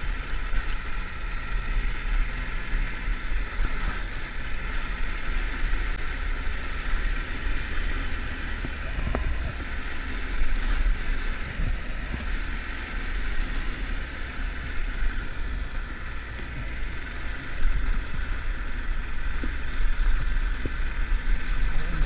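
Triumph Tiger 1200 three-cylinder motorcycle engine running steadily on the move, with wind rushing over the camera microphone.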